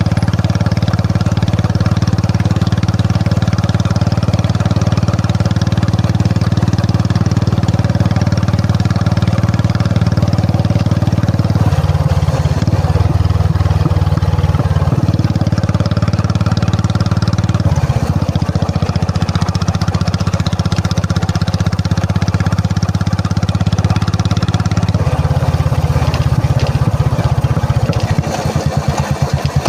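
Royal Enfield Classic 350's single-cylinder engine running. Its note shifts several times, and near the end it turns into a slower, pulsing thump.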